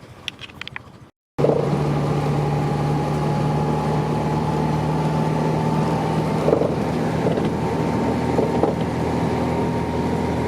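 A car engine running steadily with road noise while driving, a constant drone. It starts abruptly a little over a second in, after a brief silence.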